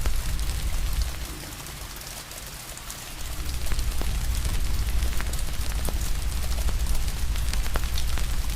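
Steady rain hiss mixed with the crackle and pops of a wood fire: many sharp, irregular snaps over the rain. A deep low rumble under it fades out about a second in and comes back about three seconds in.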